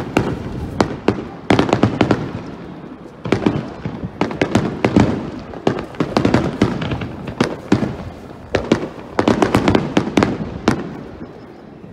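Aerial firework shells bursting in quick volleys of sharp bangs and crackles, coming in several waves and dying away near the end.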